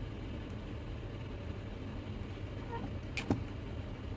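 Steady low background hum, with a short sharp click a little past three seconds in.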